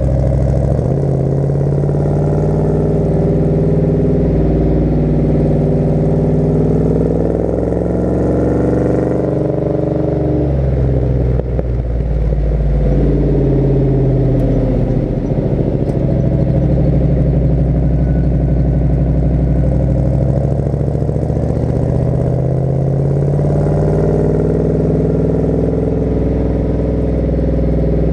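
1972 Chevy C20 pickup's big-block V8 running under way: the exhaust note climbs with the revs, drops back about ten seconds in, climbs again, eases off around twenty seconds, then builds once more.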